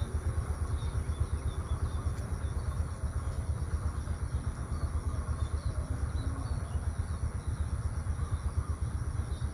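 Outdoor ambience dominated by a low, fluttering rumble, with scattered faint bird chirps and a steady high-pitched whine.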